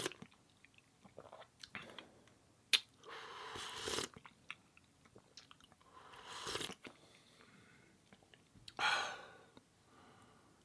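Close-miked chewing and biting of food: wet mouth sounds with scattered sharp clicks, the sharpest about three seconds in, and louder chewing stretches every two to three seconds.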